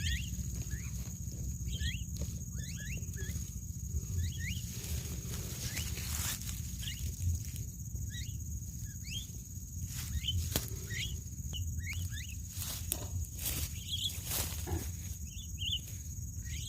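Birds chirping outdoors: short calls that sweep up in pitch, repeated every second or so, over a steady high-pitched insect buzz and a low rumble.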